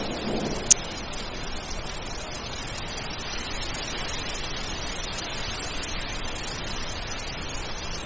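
Steady rain falling, with the tail of a thunder rumble fading out in the first half second. A single sharp click stands out just under a second in.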